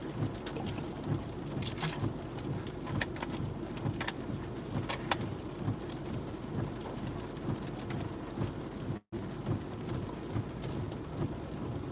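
Heavy monsoon rain drumming steadily on a car's roof and windshield as heard from inside the cabin, with a dense low rumble and many sharp drop taps.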